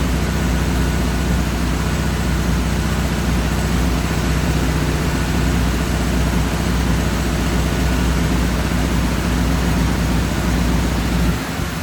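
Ford flathead engine on twin Holley 94 carburetors running steadily during carburetor balancing, with a brief drop in sound near the end.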